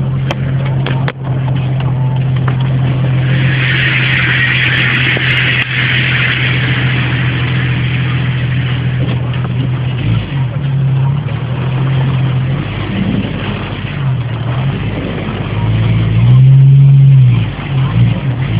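Vehicle engine idling steadily in heavy rain, with a loud rushing hiss a few seconds in. The engine revs up and back down near the end.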